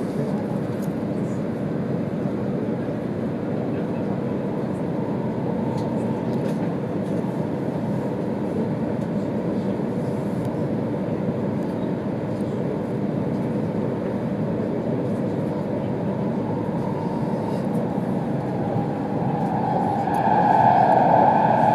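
Steady running noise of an E2 series Shinkansen heard inside the passenger cabin: an even rumble and hiss of wheels on rail. About 20 seconds in, a steady pitched tone with overtones comes in over it and gets louder.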